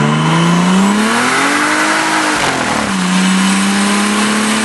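Turbocharged 2JZ-GTE straight-six in a Toyota pickup, with a T67 turbo, at full throttle. The engine note climbs, the revs drop sharply about two and a half seconds in at an upshift, and then it pulls again from lower revs.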